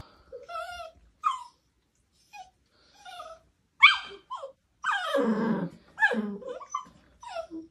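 A dog giving a series of short vocal sounds that bend up and down in pitch, with pauses between them. The sharpest comes about four seconds in, and a longer one follows just after.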